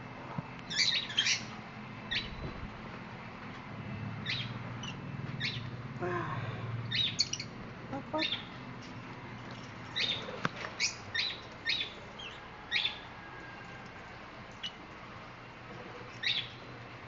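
Pet birds chirping: a dozen or so short, high, sharp chirps, some in quick clusters, over a faint low hum.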